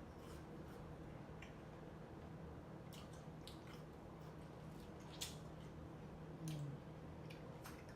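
Faint wet mouth and eating sounds of fruit being chewed: scattered sharp smacks and clicks, one every second or so, the loudest a little past five seconds in, over a low steady hum.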